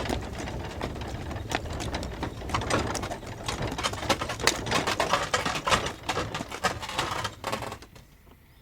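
Horse-drawn stagecoach with a team of four horses: hooves clopping while the coach rattles and creaks and the harness jingles. The sound fades away over the last second or so.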